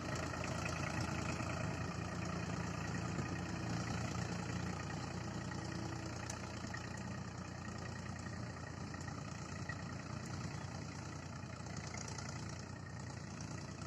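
Sonalika DI 750 tractor's diesel engine running steadily, growing slightly fainter toward the end.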